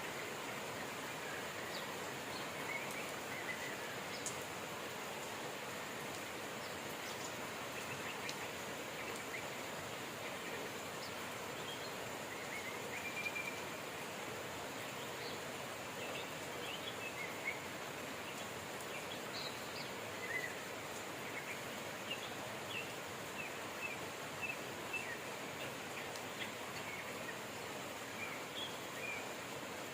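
Steady rain with birds chirping over it, short calls scattered throughout and coming more often in the second half.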